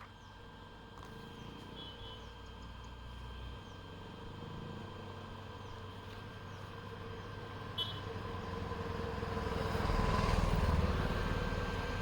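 Vehicle road and engine noise, a steady low rumble that swells to its loudest about ten seconds in and then eases off.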